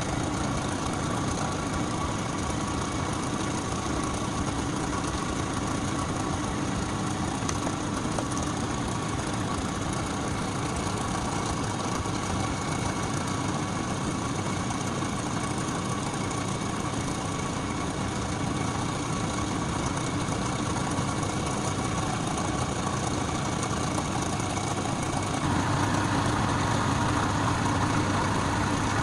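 A workshop machine running steadily with an even motor noise. About 25 seconds in it becomes louder and fuller.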